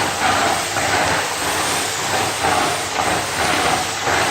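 Vacuum cleaner (hoover) running, a steady loud whooshing hiss that swells and eases roughly once a second.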